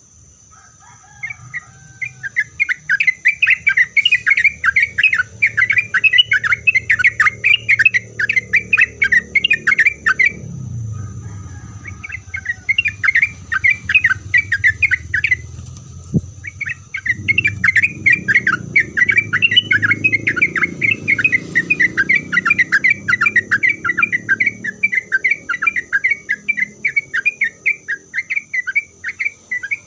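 Yellow-vented bulbul (trucuk) singing in long, fast chattering bouts of rapid notes, breaking off briefly about ten seconds in and again around sixteen seconds.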